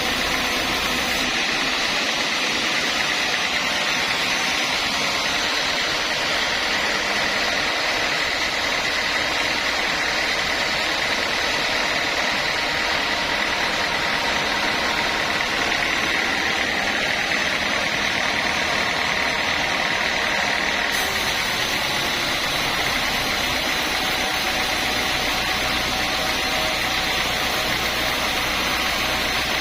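Sawmill saw machinery running steadily, a constant drone with a high whine over it.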